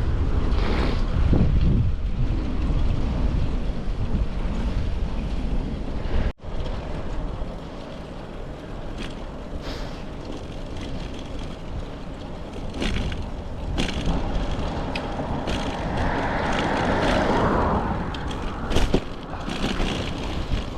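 Road noise of a bicycle ride: wind rumble on the microphone and tyres on pavement, with a louder swell of traffic noise as a vehicle goes by near the end. The sound drops out abruptly for a moment about six seconds in.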